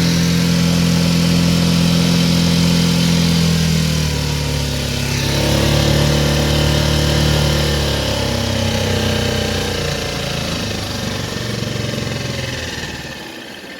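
Mercury 4 hp outboard motor running under power, then throttled back in steps: its pitch drops about four seconds in and again about eight seconds in, and it quietens to idle near the end.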